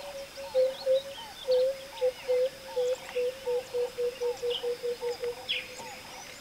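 Birds calling in the bush: a low cooing note repeated again and again, coming faster and faster toward the end, with higher chirps over it.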